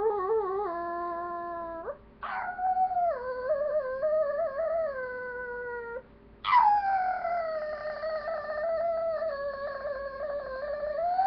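Long drawn-out howls, three in a row: each starts high, slides down and is held with a slight wobble, the last one the longest.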